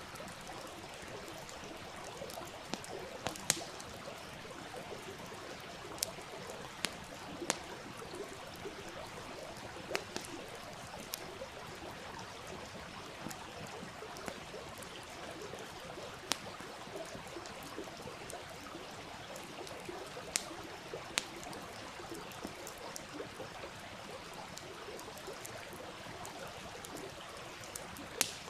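Wood campfire crackling, with irregular sharp pops, over the steady rush of a stream.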